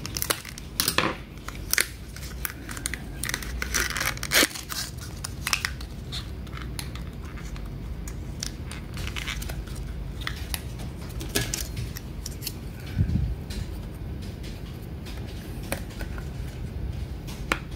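Scattered small clicks and knocks of DDR3 laptop memory modules being handled and fitted into the RAM slots of an opened Lenovo G400S laptop, busiest in the first few seconds and sparser after, over a low steady hum.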